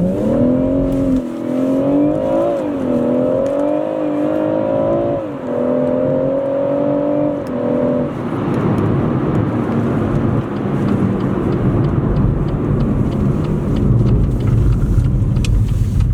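Stock BMW M140i's turbocharged 3.0-litre straight-six under load, its note held high and dipping in pitch a few times. After about 8 s the engine note fades into a steady road and wind rumble.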